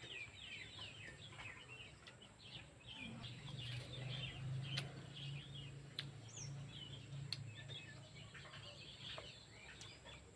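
Birds chirping over and over, many short high calls that slide downward, faint throughout. A low steady hum rises about three seconds in and fades near the end, with a few sharp faint clicks along the way.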